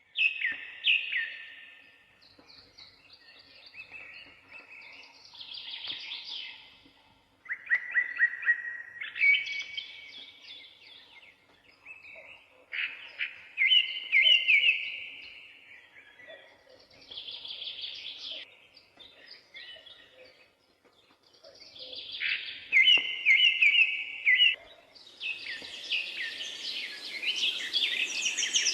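Songbirds singing in a series of short phrases, each a second or two long with brief pauses between them. Near the end the sound thickens into a fuller, denser chorus.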